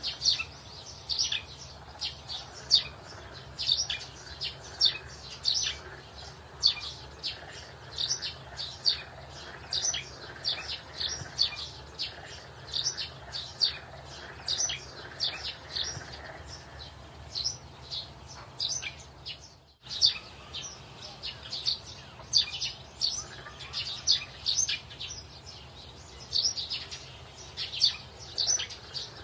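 Small birds chirping, many short high chirps in quick succession with no letup, cutting out for a moment about twenty seconds in before carrying on.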